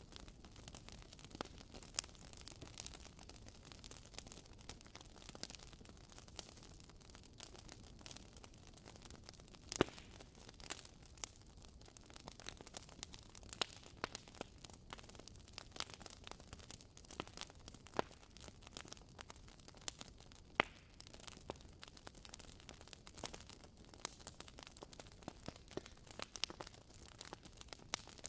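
Wood fire crackling in a fireplace: irregular sharp pops and snaps from burning logs over a low steady hiss, with a few louder pops, the loudest near the middle.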